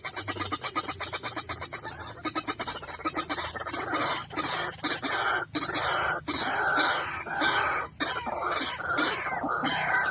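White-breasted waterhen calls: a fast run of repeated notes, about ten a second, which gives way about two seconds in to louder, harsher calls with falling notes.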